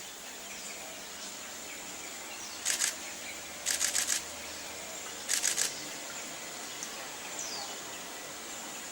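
Camera shutters firing in rapid continuous-shooting bursts, three bursts of three or four frames each about a second apart, over a steady high-pitched outdoor hum.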